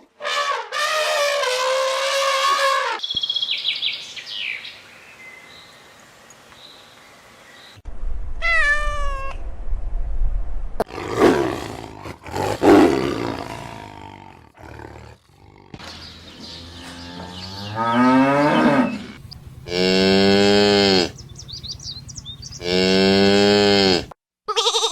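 A series of different animal calls, one after another with short gaps: a cat meowing at the start, followed by several other farm-animal calls.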